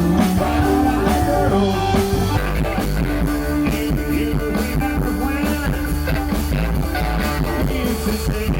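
Live rock band music, with a guitar line over bass and drums.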